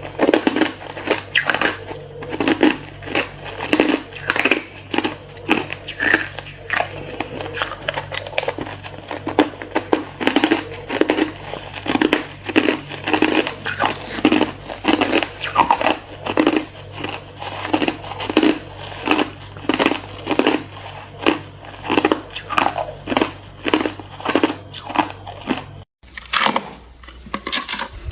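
Hard clear ice being bitten and chewed close to the microphone: a steady run of crisp crunches, about two a second, over a low steady hum, breaking off for a moment near the end.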